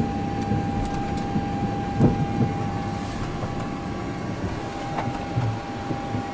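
Steady rumble with a continuous whine, heard from the flight deck of an airliner being towed by a tug, with a single knock about two seconds in.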